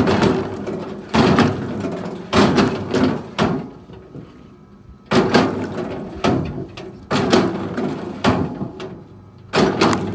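A run of heavy knocks about a second apart, with a pause in the middle, over a steady hum.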